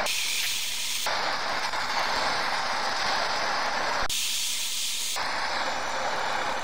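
Handheld gas torch burning with a steady hissing flame, heating the transmission case to loosen a stuck pin. Twice, at the start and about four seconds in, the hiss turns thinner and higher for about a second.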